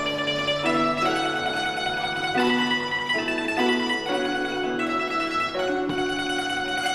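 Guzheng (Chinese zither) playing a fast melodic passage of plucked notes, the pitch changing several times a second over a held low note.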